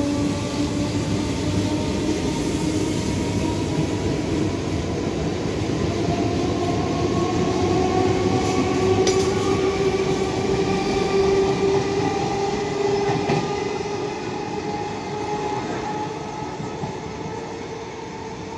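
EMU local train running past: a steady rumble of wheels on rail with an electric motor whine that rises slowly in pitch. The sound is loudest about halfway through, as the cars pass close below, and fades near the end as the train draws away.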